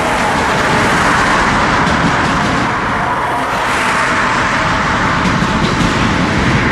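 Empty oil tank cars of a freight train rolling past, a steady noise of steel wheels on the rails.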